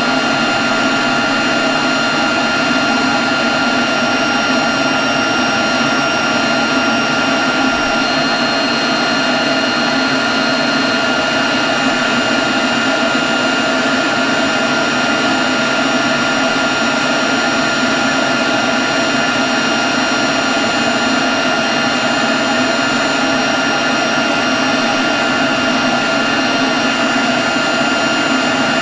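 Leaf blower running steadily at constant speed: a rushing blast of air with a steady high whine over it.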